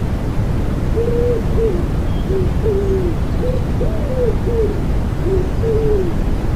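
Common wood pigeon cooing: a run of about ten soft, low hooting notes in phrases, from about a second in until near the end, over a steady rushing white noise.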